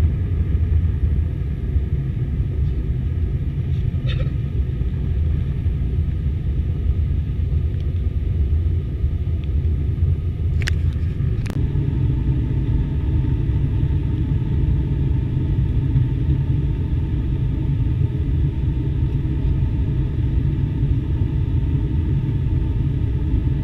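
Steady low rumble of an airliner heard from inside the cabin, with a few short sharp clicks about four, ten and eleven seconds in.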